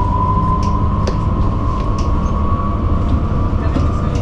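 Ride inside an electric bus: a steady low rumble with a high electric-motor whine that slowly rises in pitch as the bus gathers speed, and a few faint ticks.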